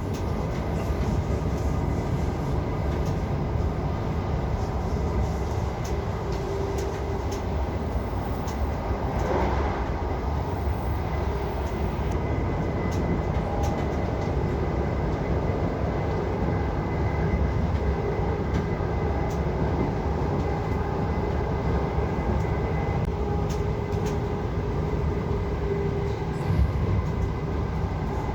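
Passenger train running at speed, heard from inside the carriage: a steady low rumble of wheels on the track with a faint steady whine.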